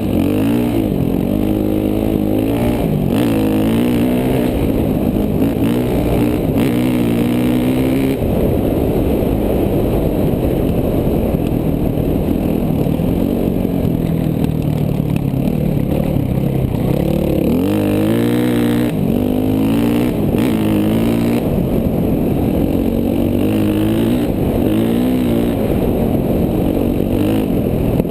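KTM 450 dual-sport motorcycle's single-cylinder four-stroke engine running under the rider, revving up and down again and again, with a lower, steadier stretch about midway.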